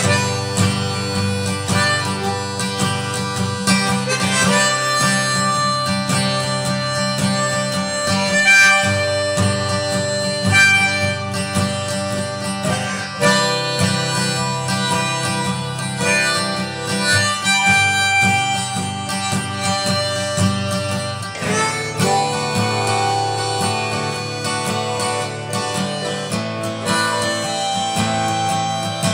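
Acoustic guitar and harmonica playing a folk-style instrumental, the harmonica holding long notes over steady guitar accompaniment.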